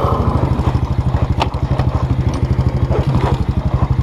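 Small off-road vehicle engine idling with a fast, even putter while the rider tries to find neutral, with a sharp click about a second and a half in.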